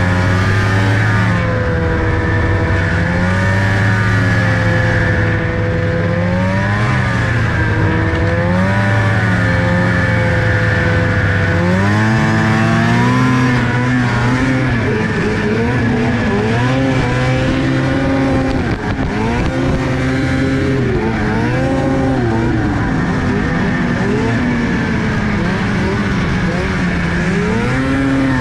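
Car engine running under changing throttle, its pitch swinging up and down every second or two and stepping up higher about twelve seconds in.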